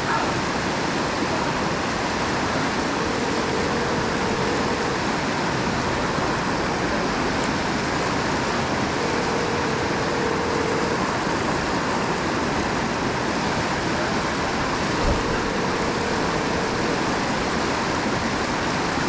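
Steady, loud rush of water from the rocky river rapids. Over it a faint telephone ringback tone sounds for about two seconds every six seconds, the sign of an outgoing call ringing unanswered. A single low thump comes near the end.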